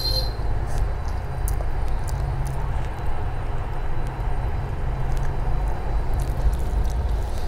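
A steady low rumble runs under the faint wet clicks and squishes of a person chewing a mouthful of rice and working the rice on a plate with the fingers.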